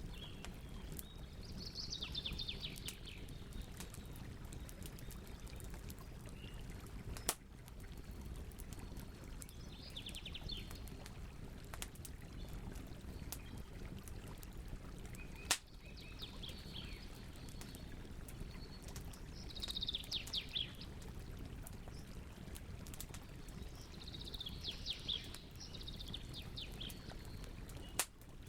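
Campfire burning with a steady low rush and constant small crackles, with three sharp, loud pops spread through. A bird calls five times over the fire, each call a short burst of rapid trilled notes.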